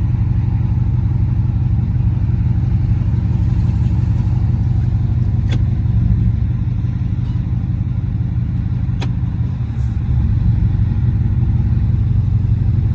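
Dodge SRT8's 392 HEMI V8 running rough with an uneven, choppy beat: a misfire, which the owner puts down to failed lifters or bad gas. Two sharp clicks sound about five and a half and nine seconds in.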